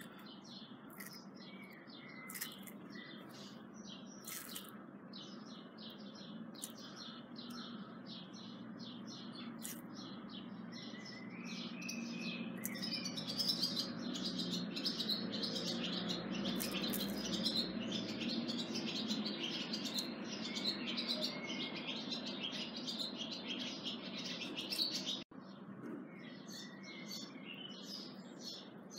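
Small birds chirping and twittering throughout, over a low steady background murmur.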